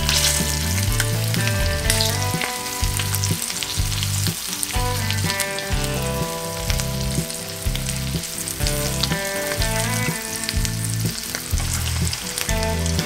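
Frog legs frying in hot oil in a skillet, a steady sizzle, with metal tongs now and then moving the pieces. Background music with a bass line plays under the sizzle.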